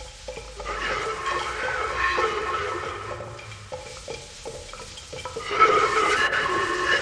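Primitive percussion instrument being shaken or scraped: a dense rattling texture full of small clicks that swells up twice, with a faint ringing tone running through it.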